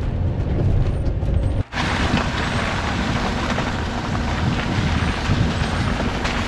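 Vehicle driving along a road: steady engine and tyre noise. About two seconds in it breaks off and returns hissier, with a steady low hum underneath.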